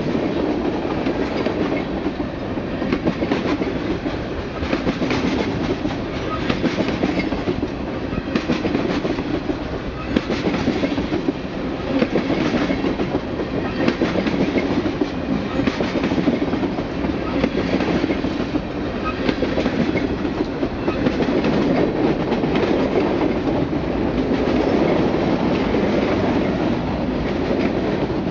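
A long freight train of covered hoppers, tank cars and gondolas rolling past close by: a steady rumble with a constant clatter of wheels over the rail joints.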